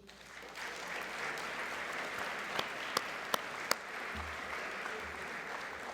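Audience applauding steadily, beginning about half a second in, with a few sharper single claps standing out around the middle.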